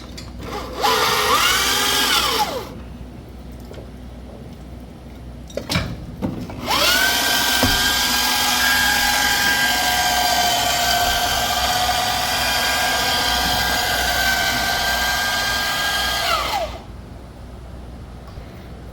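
Power tool such as a drill or driver spinning, most likely working a bolt. It gives a short burst about a second in, then one long steady whining run starting about seven seconds in, winding up when it starts and dropping off when it stops. A couple of clicks come just before the long run.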